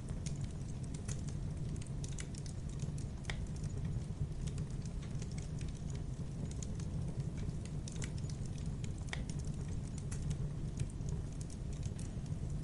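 Wood campfire burning: irregular crackles and small pops scattered throughout over a steady low rumble of the flames.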